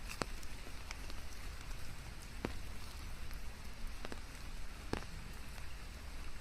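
Steady rain falling, an even hiss with about four single drops standing out sharply over it.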